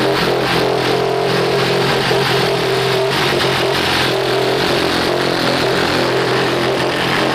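Yamaha R6 inline-four engine idling steadily through an Akrapovic exhaust, still warming up after a cold start.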